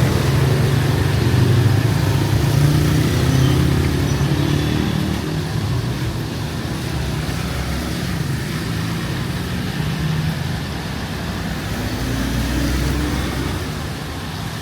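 Street traffic: a vehicle engine running close by, loudest in the first few seconds and fading after about five, and another vehicle approaching near the end, over a steady hiss.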